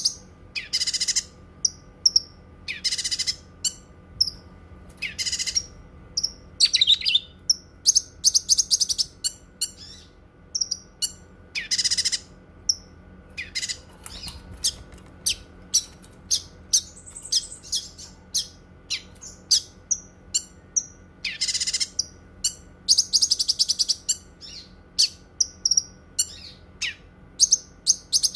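Cucak kinoi singing: a busy run of sharp, high chirps and short notes, with loud bursts every second or two and a few fast rattling trills.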